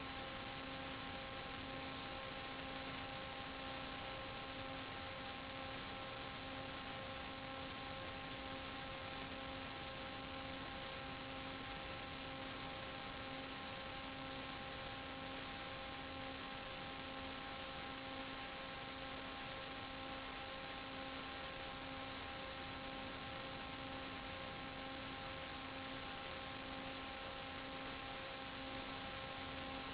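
Steady hum made of several evenly spaced tones over a constant hiss, unchanging throughout, with the lowest tone pulsing gently about once a second.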